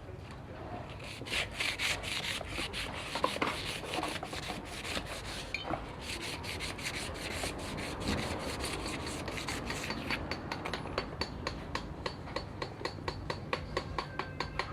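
A part being rubbed down by hand with an abrasive, in quick back-and-forth strokes. The strokes start about a second in, pause briefly around the middle, then come faster and more evenly in the second half.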